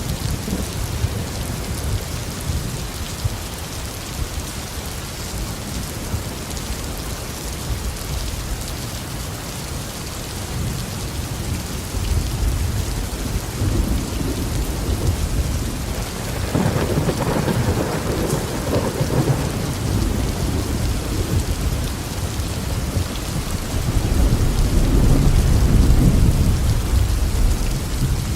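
Steady tropical rain falling in a garden under a thunderstorm, with rolling thunder that swells up several times, loudest near the end.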